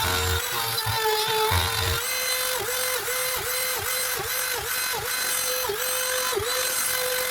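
Router spindle of a benchtop CNC machine running at a steady high pitch while cutting plywood. In the second half its tone dips briefly and repeatedly as the bit bites. The sound cuts off abruptly at the end.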